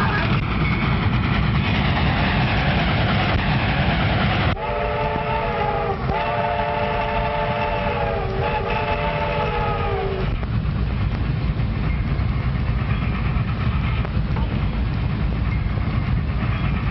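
Train running steadily, its multi-note chime whistle sounding three blasts in a row from about five seconds in, the middle blast the longest.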